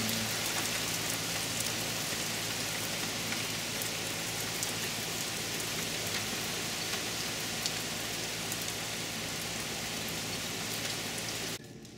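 Heavy rain falling steadily on a wooden deck and yard, with many fine drops ticking through it. The sound drops off abruptly near the end.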